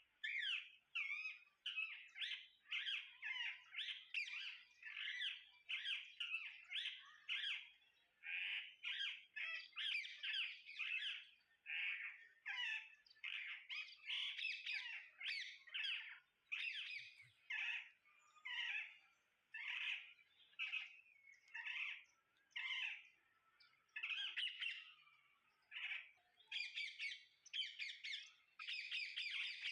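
Parrots calling: a continuous run of short squawks and chirps, about two a second, growing denser near the end.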